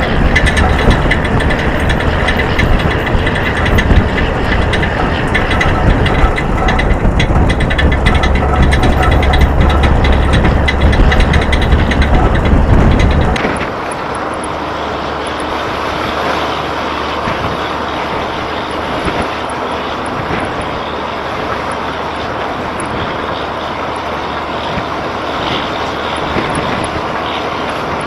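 Heavy diesel equipment running loudly with a strong low rumble, then an abrupt cut about 13 seconds in to a quieter, steady engine drone.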